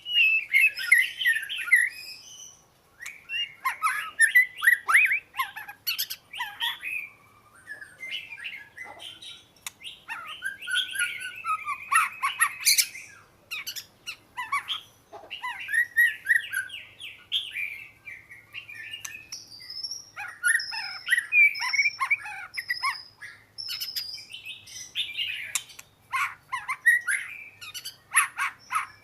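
Oriental magpie-robin singing: a long, varied string of whistled, gliding phrases with sharp clicking notes mixed in and brief pauses between phrases, including a run of higher, repeated notes about two-thirds of the way through.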